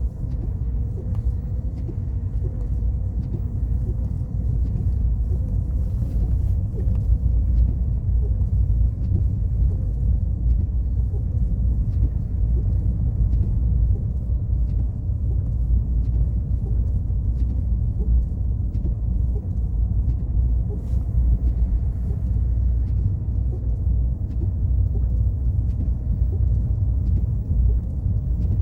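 Car driving along a road, a steady low rumble of engine and tyres.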